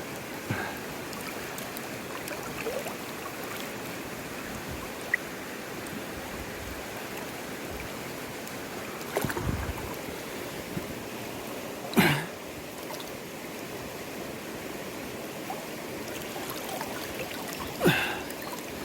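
River water rushing steadily, with a few short, louder splashing knocks, the loudest about twelve seconds in and another near the end.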